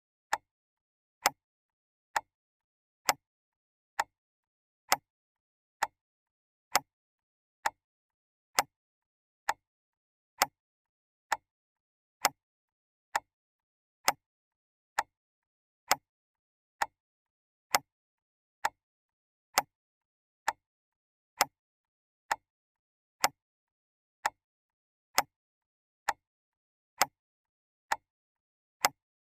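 Clock ticking steadily, a sharp tick a little under once a second.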